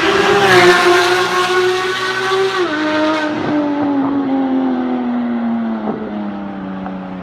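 Porsche 991 GT3's flat-six engine through an Fi aftermarket exhaust, running loud at high revs. About two and a half seconds in, the note drops in pitch, then keeps sliding lower as it fades.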